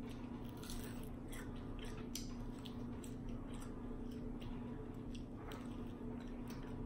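Mouth sounds of biting and chewing a crispy fried chicken wing: irregular short crunchy clicks and wet smacks. A steady low hum sits underneath.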